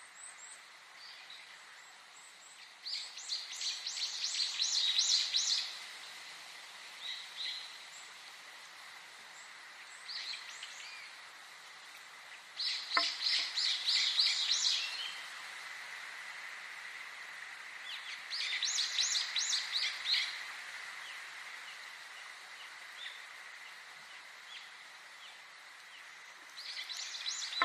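A songbird singing four rapid phrases of many quick high notes, each lasting two to three seconds and coming every six to eight seconds, with a few short chirps between them. A faint steady high tone runs underneath.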